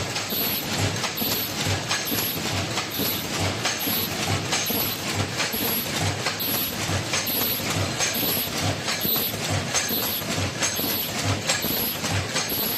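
Automatic face-mask making machine running continuously, cycling with a regular repeating beat under a constant clatter of clicks.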